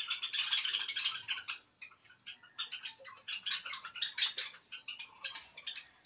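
Small cage birds chattering, a dense run of quick high chirps that thins out about two seconds in, picks up again, and fades near the end.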